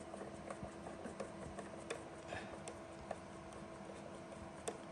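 Breville BES990 espresso machine during a descaling cycle: a faint steady hum with scattered light ticks and clicks at irregular spacing.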